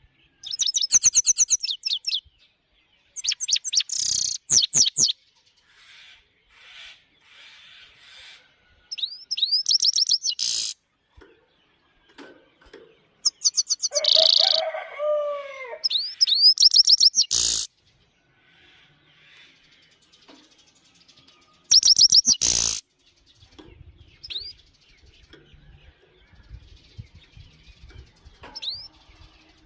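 European goldfinch singing: phrases of rapid, high twittering notes lasting a second or two, separated by short pauses.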